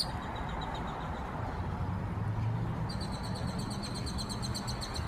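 Grackles calling: a rapid run of high, evenly repeated chirps begins about three seconds in, over a steady low hum.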